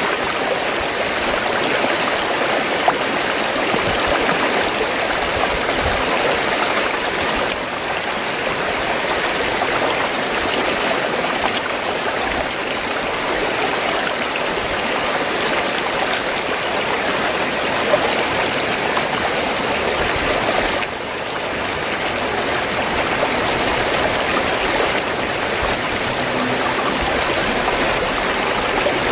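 Fast-flowing stream water gurgling and rushing steadily, with a couple of faint clicks.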